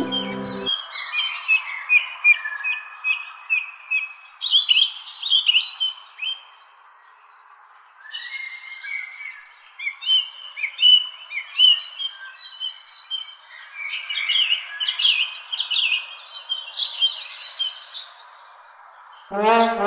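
Many small birds chirping over a steady high-pitched insect drone, like crickets. The chirps are densest in the first few seconds and again from about eight seconds in.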